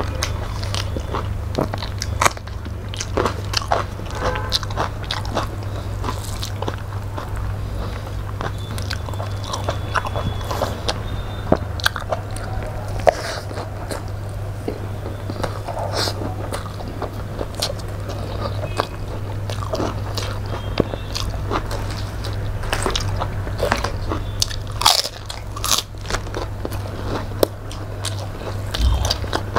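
Close-miked eating by hand: chewing with wet mouth sounds, lip smacks and frequent short crunches, over a steady low hum.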